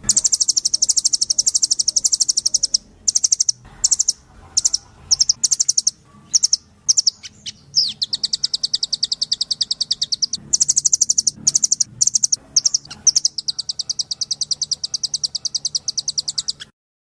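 Blue nuthatch (Sitta azurea) lure-call recording: fast, high-pitched rattling trills. Runs of a few seconds alternate with a stretch of short broken bursts in the middle, and the sound cuts off suddenly near the end.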